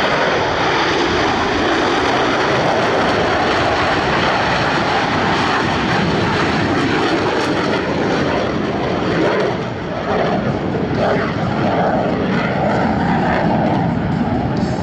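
Loud, steady roar of Boeing F/A-18 Super Hornet jets with General Electric F414 turbofans as a low formation breaks apart. It eases briefly about ten seconds in.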